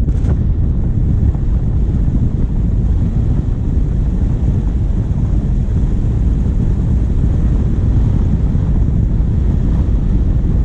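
Wind buffeting the microphone of a bonnet-mounted GoPro on a moving diesel vehicle: a steady low rumble.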